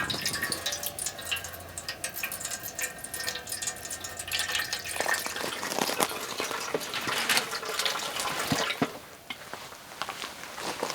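Water running into a container for about five seconds, then cutting off, followed by scattered light knocks and clicks of handling.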